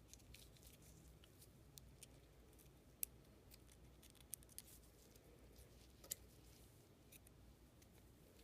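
Faint, scattered light clicks and ticks of small metal parts of a Leibinger numbering machine being handled during reassembly, with a few sharper clicks about three, four and six seconds in, over quiet room tone.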